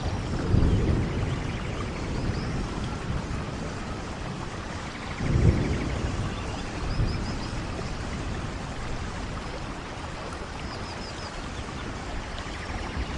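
Steady rainfall with low rumbles of thunder, one just after the start and a louder one about five seconds in.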